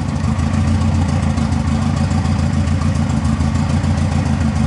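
Turbocharged, carbureted VW Gol four-cylinder engine idling steadily with the hood open.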